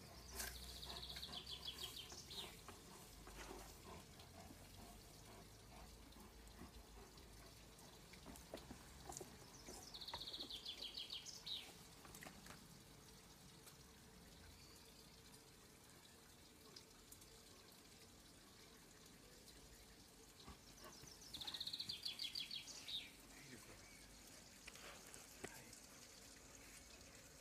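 A songbird sings a short, rapid trill of repeated high notes three times, about ten seconds apart. Faint scrapes and scratches of a dog digging in soil come in between.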